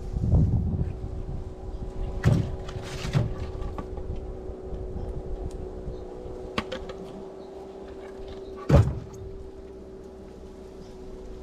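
Several separate knocks of firewood being handled, the loudest one near the end, over a steady hum.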